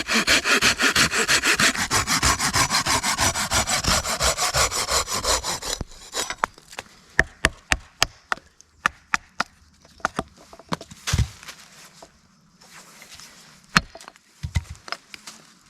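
Hand saw cutting through wood with fast, even strokes for about six seconds, then stopping, followed by a scatter of sharp clicks and knocks.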